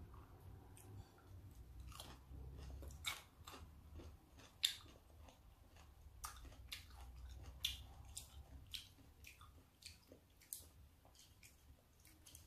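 Close-up chewing of raw salmon sashimi: faint, irregular wet mouth clicks and smacks, a few a second, one sharper smack about halfway through.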